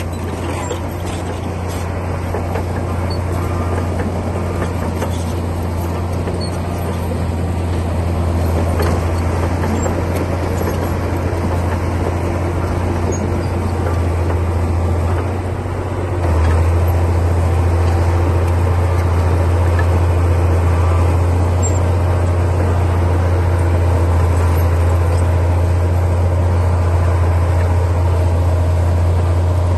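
Komatsu D60P bulldozer's diesel engine running steadily with a deep, heavy hum; it gets louder about halfway through and stays there.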